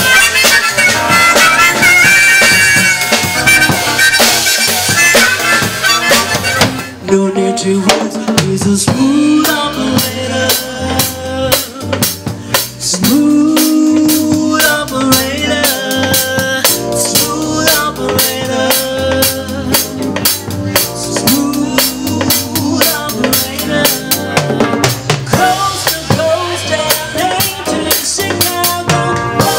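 A band playing an instrumental passage without vocals: a bright lead melody over drums, changing about seven seconds in to a steady drum-kit beat with bass and melody lines.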